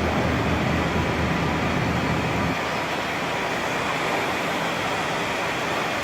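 Ride-on floor cleaning machine running: a low motor hum with a steady rushing noise over it. The hum drops away about two and a half seconds in, leaving the rushing noise.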